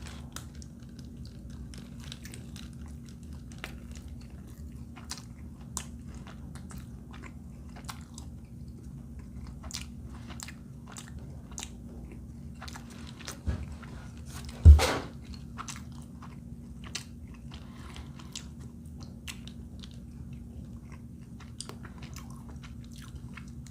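A person biting into and chewing a cheesy chicken arepa close to the microphone, with many small wet mouth clicks over a low steady hum. One loud thump about halfway through.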